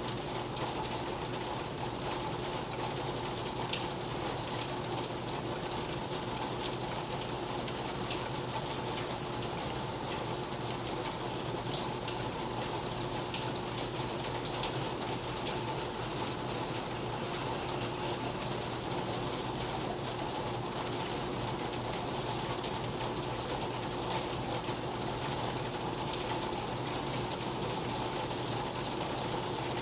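Steady rain ambience: an even, continuous hiss with a few scattered light drips or taps.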